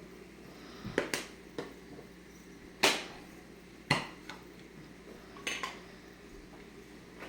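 Kitchenware clinking and knocking, such as a utensil or a seasoning container against a pot: about half a dozen sharp clinks spread over several seconds, with the loudest about a second apart.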